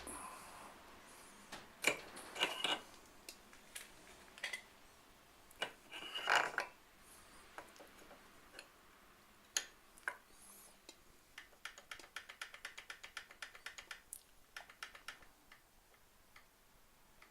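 Small mechanical clicks and knocks, then a rapid run of even ticks, about five a second, for some four seconds in the second half: a mechanism clicking as it is worked, the kind of noise being hunted as abnormal.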